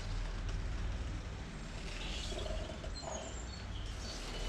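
Steady low background hum, with a few brief bird chirps about halfway through.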